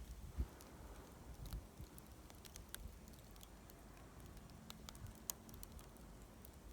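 Plum-wood bonfire crackling faintly, with scattered sharp pops and ticks from the burning wood.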